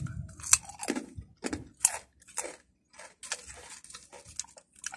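Patata potato snack being bitten and chewed, with crisp crunches coming irregularly several times a second. The crunches are loudest in the first half and grow fainter toward the end.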